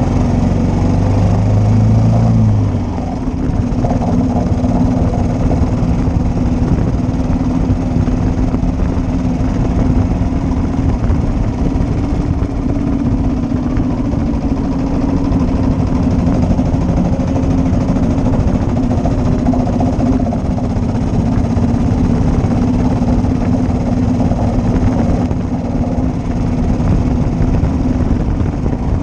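1941 Matchless G3L's single-cylinder engine running under way, with a short dip in level about three seconds in and then a steady note.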